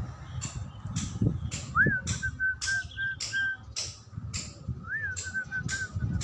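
Zebra dove cooing twice, each call a rising note followed by a quick run of short, even coos. Sharp ticks repeat about twice a second behind it.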